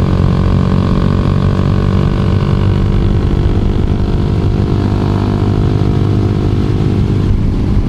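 2012 Honda CBR250R's single-cylinder engine running at steady revs while riding.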